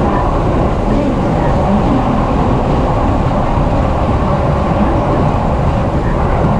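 Steady running noise of a JR East E233-series electric commuter train heard from inside the car: a constant low rumble of wheels on rail, with no change in level.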